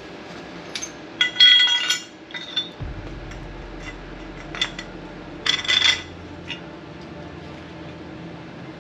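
Metal parts and tools clinking and clattering as they are handled, with two longer ringing clatters about a second in and near six seconds, and a few light taps between.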